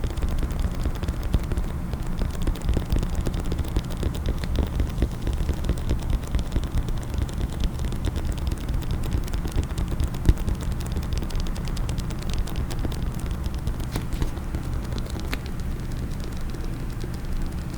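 Rapid, continuous fingertip and fingernail tapping and scratching on a case, in quick irregular clicks, with one sharper, louder tap about ten seconds in.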